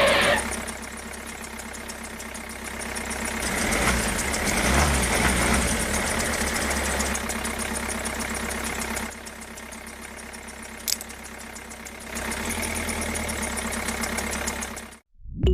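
Tractor engine running steadily, growing louder a few seconds in, dropping back for a few seconds, then louder again before cutting off abruptly near the end.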